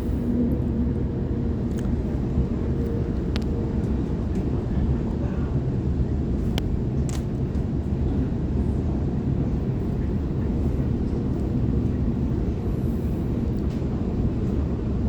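Sydney Trains Waratah electric multiple unit running at speed, heard from on board: a steady low rumble of wheels on rail with a few faint clicks.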